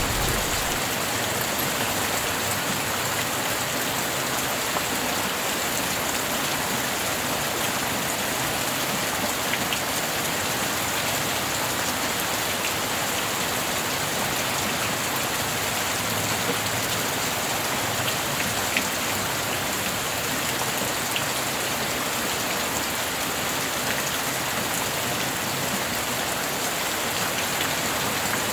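Steady heavy rain falling, an even dense hiss with a few distinct drop ticks. A low thunder rumble dies away within the first second.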